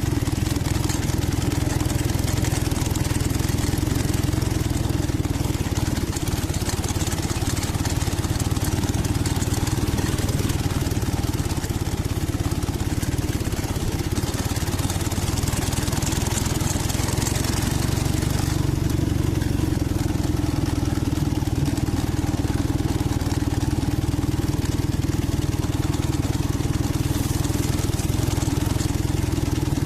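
Dnepr MT-11 motorcycle's boxer-twin engine running steadily, with a hiss over it that brightens for a few seconds around the middle and then drops back abruptly. The engine has been freshly tuned: new spark plugs, carburettors adjusted and ignition timing set.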